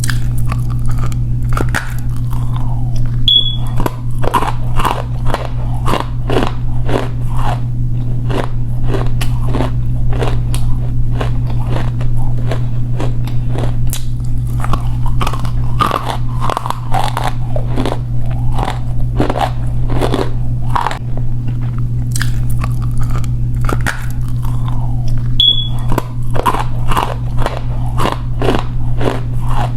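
Close-miked biting and chewing of edible clay: a dense run of crisp crunches, several a second, with short gaps between bites. A steady low hum runs underneath.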